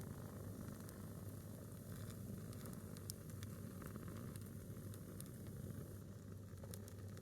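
A single log of firewood burning in an open fire, with scattered sharp crackles and pops over a steady low rumble.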